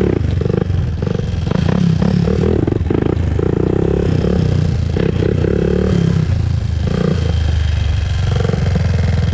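2001 Honda TRX400EX ATV's single-cylinder four-stroke engine running, its revs rising and falling.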